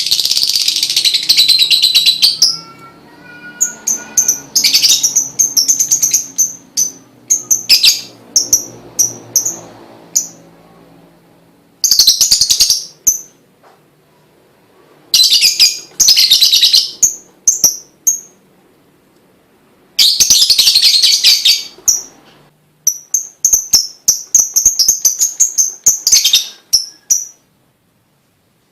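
Lovebird singing in loud, rapid, high-pitched chattering trills, in phrases of one to three seconds separated by short pauses; the singing stops shortly before the end.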